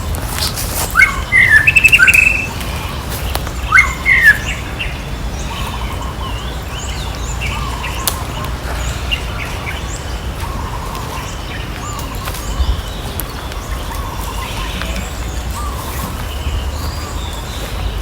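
Shrill chirping calls, a quick run of them about a second in and another near four seconds, over fainter chirps that keep up throughout and a low rumble.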